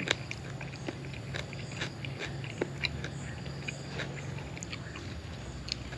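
A person chewing a mouthful of pounded cucumber salad, with irregular crisp crunches and mouth clicks scattered throughout.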